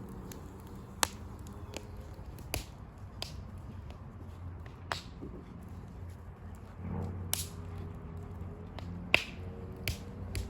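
Wood fire of burning sticks crackling, with sharp pops at irregular intervals, about seven in all.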